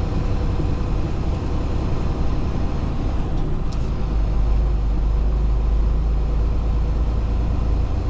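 Semi-truck tractor running as it pulls a flatbed trailer slowly through the yard, a steady engine rumble with road noise; the low rumble gets heavier about halfway through.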